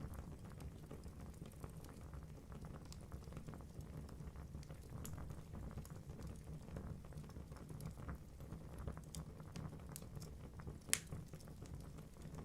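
Wood fire burning in a fireplace: logs crackling with many small irregular pops over a low, steady roar of flame, and one sharper, louder pop near the end.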